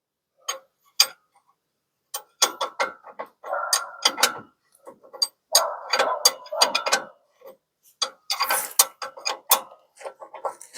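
Socket ratchet wrench with an 18 mm socket clicking in several short runs of rapid clicks, turning the bottom mounting bolt of a Ford F100's shock absorber.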